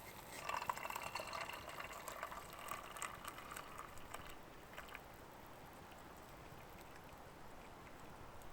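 Liquid being poured, a splashing pour of about four seconds that then stops, leaving only faint background.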